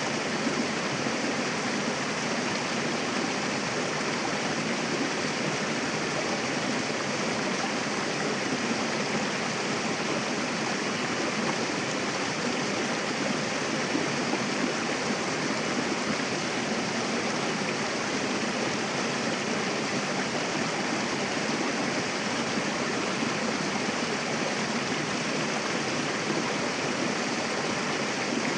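Mountain river rushing and splashing over rocks: a steady, dense white-water noise with no breaks.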